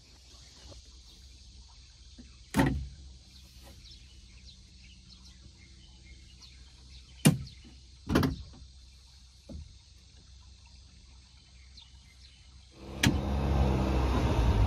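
A few sharp knocks, the loudest about seven seconds in, then a loud steady rushing noise starts near the end.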